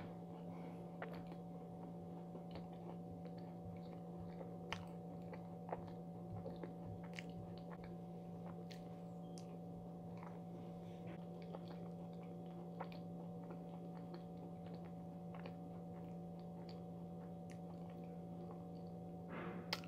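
A person chewing a soft macaron with her mouth closed, with sparse faint mouth clicks, over a steady low hum.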